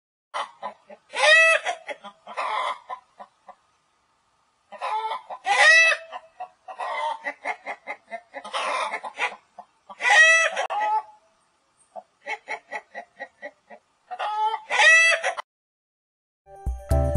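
Domestic chickens: a rooster crowing four times in short calls, with clucking between the crows.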